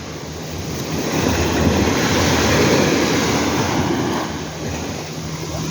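Sea waves washing up the beach, one surge swelling to a peak about halfway through and then easing off, with some wind buffeting the microphone.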